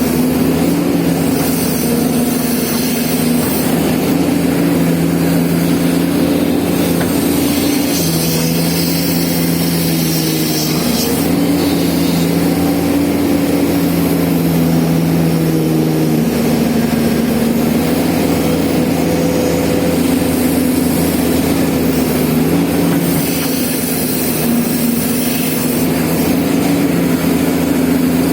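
Komatsu hydraulic excavator's diesel engine running steadily while digging, its pitch shifting up and down a little every few seconds as the load changes.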